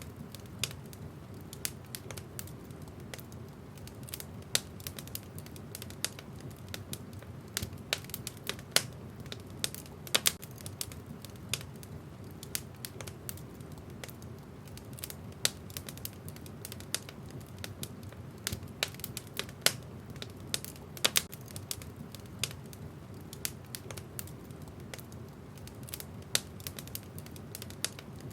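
Wood fire in a fireplace crackling, with irregular sharp pops and snaps from the burning logs over a low, steady rumble of the flames.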